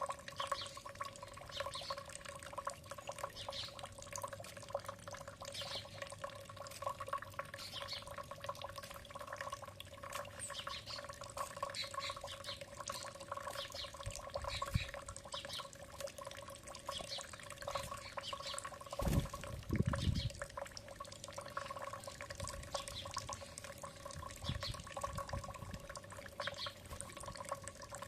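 Water dripping and trickling in short, irregular ticks over a steady electrical-sounding hum, with a couple of low thumps about two-thirds of the way through.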